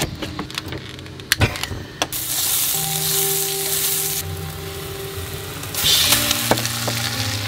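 A knife chopping through a zucchini onto a cutting board, a few sharp clicks in the first two seconds. Then zucchini slices sizzling in hot oil in a frying pan, the sizzle flaring up again about six seconds in as the slices are turned.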